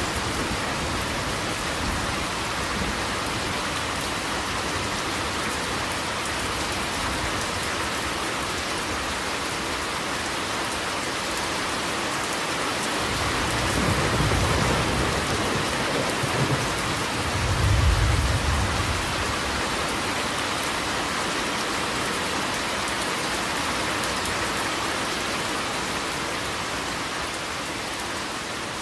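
Steady rain falling, with low rumbles of thunder swelling twice about halfway through, the second the louder.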